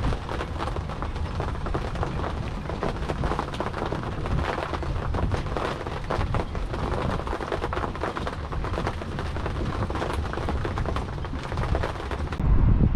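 Rain pattering thickly on a close surface, a steady crackle of many small drops. Near the end it switches abruptly to a low wind rumble on the microphone.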